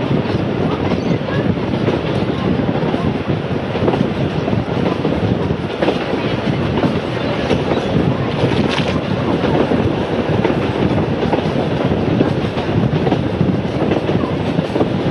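Steady running noise of a heritage train on narrow-gauge track, heard from on board a timber carriage: wheels on rails and the carriage rattling along.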